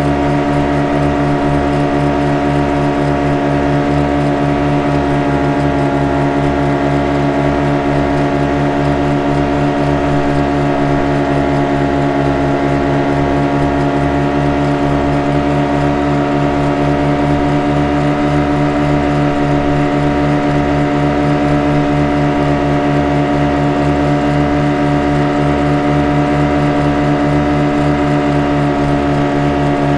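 Boat engine running at a constant speed: an even, unchanging drone with a rapid throb in the low end.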